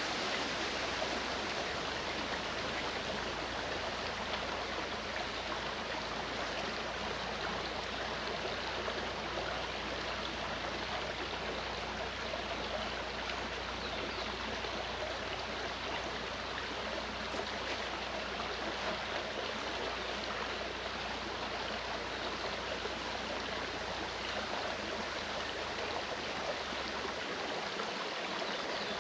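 Mountain stream running steadily over rocks: an even rush of flowing water.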